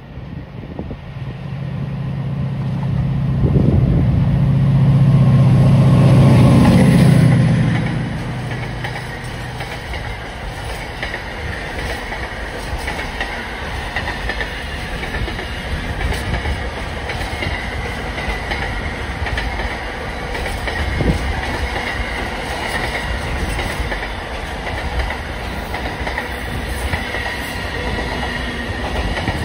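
Diesel freight locomotive passing under power, its engine swelling to loudest about four to seven seconds in, then dropping away. A long train of container wagons follows, rolling by with a steady rumble and clickety-clack of wheels over the rail joints, and a thin high wheel squeal.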